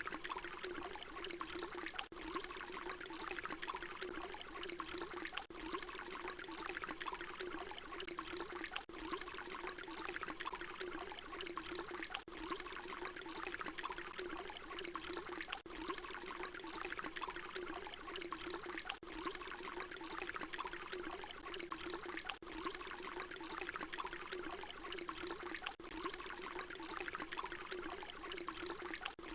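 Water pouring in a steady continuous stream, a short recording looped so that a brief dip recurs about every three and a half seconds.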